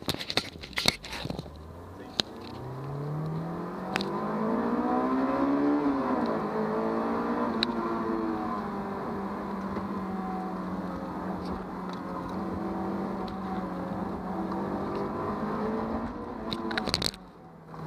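Honda S2000's four-cylinder engine accelerating hard off the line: the revs climb steeply for about three seconds, fall sharply at an upshift, then hold fairly steady under load, heard from inside the cabin. A few light clicks come at the start, and the engine drops off briefly near the end.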